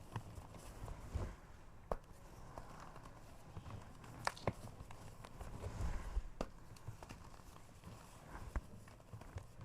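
A block of gym chalk being crushed, crunching and crumbling, with a few sharp cracks, the loudest a pair about halfway through.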